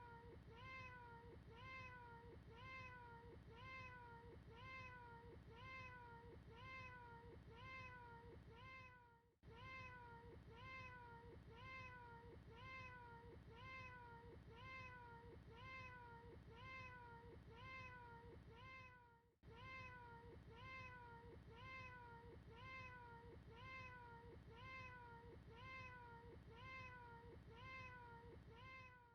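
A short cat meow looped over and over, about two a second, each one dipping and rising in pitch. The loop breaks off briefly about every ten seconds. The recording is faint.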